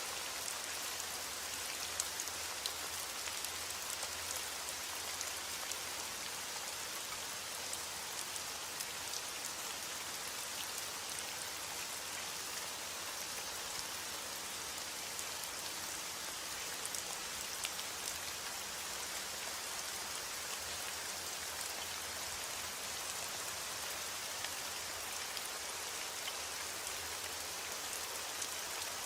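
Steady heavy rain: a continuous even hiss of falling rain with scattered individual drop ticks on a surface.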